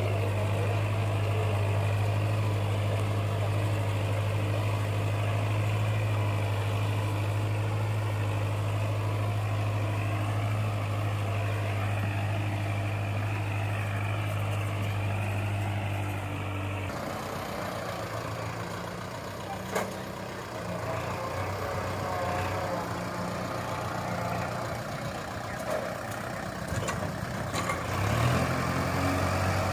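Kubota tractor's diesel engine running with a steady low hum. About halfway through the sound changes to a lighter, more uneven running with a few sharp clicks.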